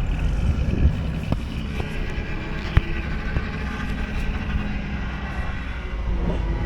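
A vehicle engine running steadily with a low rumble, with a few sharp clanks over it, the loudest about three seconds in.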